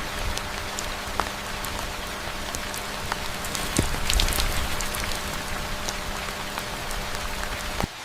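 Steady rain falling, a constant hiss with many small scattered drop ticks, cutting off abruptly near the end.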